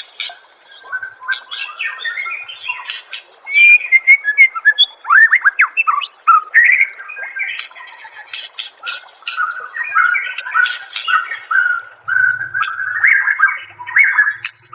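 White-rumped shama (murai batu) singing a varied, continuous run of whistled phrases, quick chirps and sharp clicking notes.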